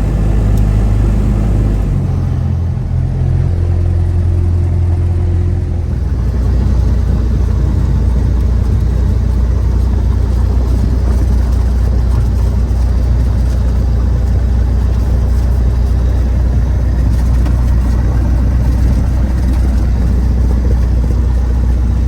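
Cessna 172's piston engine running at low power, likely taxiing. Its drone steps in pitch twice in the first several seconds, then holds steady.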